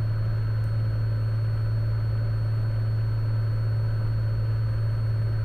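Cessna Skylane's piston engine and propeller droning steadily in the cockpit on approach, a constant low hum with no change in power.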